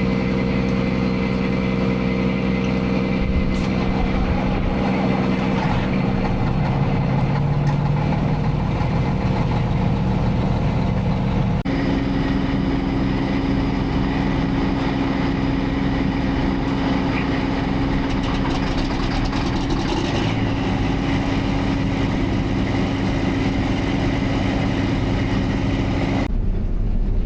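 Diesel engine of large harvest machinery running steadily, with its pitch changing abruptly about halfway through and again near the end.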